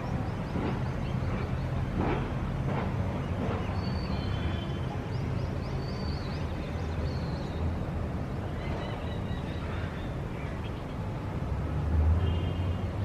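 City ambience: a steady low rumble of traffic with short, high bird chirps scattered over it, and the rumble swelling briefly near the end.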